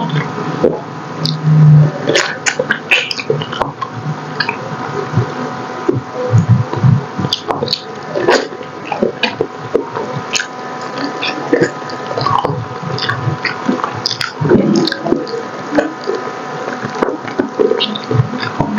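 Close-miked wet eating sounds: chewing, lip smacks and sucking of braised pork hock, with many short clicks and a few soft low thuds.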